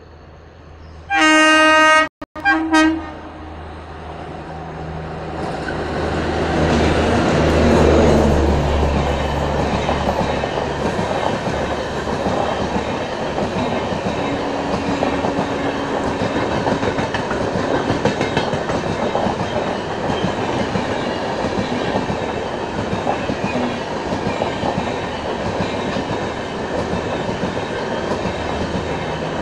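A locomotive horn sounds a loud blast of about a second, breaks off briefly, then gives a short second blast. A train then comes up over a few seconds and runs past steadily, its wheels clattering on the rails.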